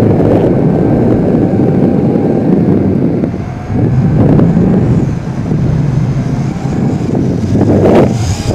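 Wind buffeting the microphone in gusts, with a faint steady whine from the quadcopter's motors in flight.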